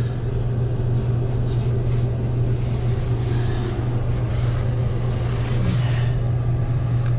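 Toilet tank refilling through a newly fitted fill valve, water running and hissing steadily after a flush, over a steady low hum.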